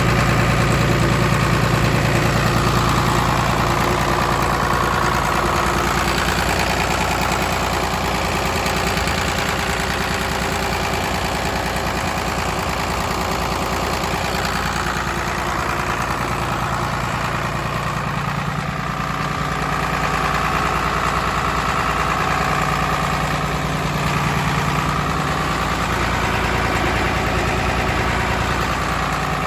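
Diesel engine of a 2000 Bitelli BB670 asphalt paver running steadily, without revving.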